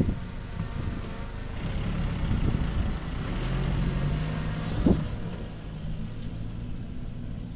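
Diesel engine of heavy earthmoving machinery running, louder for a few seconds in the middle, with a single sharp clank just before the five-second mark.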